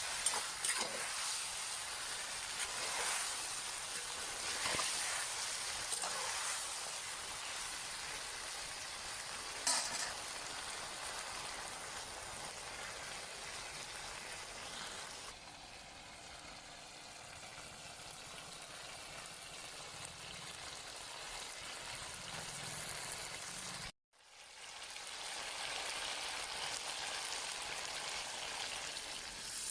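Food sizzling as it fries in a hot pan, a steady hiss broken by a few sharp knocks of stirring in the first third.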